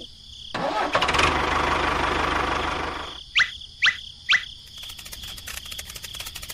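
Sound effects: a loud engine-like noise for about two and a half seconds, then three quick rising chirps, then rapid rattling clicks, over a steady high whine.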